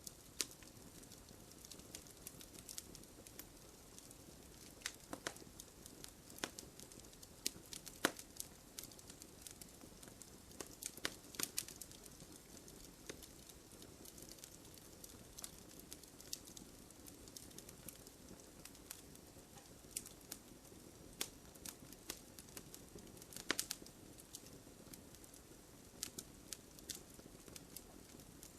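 Wood campfire burning, with a soft steady hiss of flames and irregular sharp crackles and pops from the burning wood, a few louder ones standing out.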